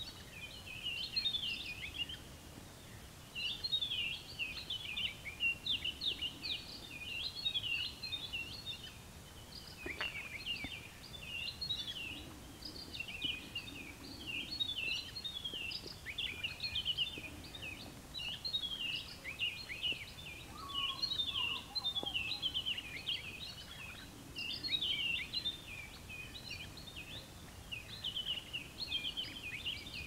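Small birds chirping and twittering in quick, high-pitched runs of notes, broken by short pauses, over a faint background hiss. A single lower call is heard about two-thirds of the way through.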